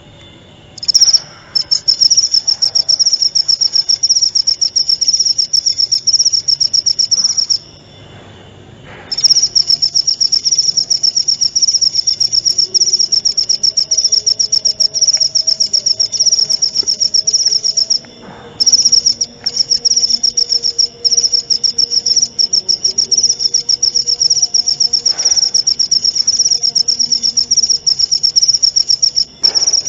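Cricket singing in long, fast, high trills, with short breaks about eight seconds in and again around eighteen seconds.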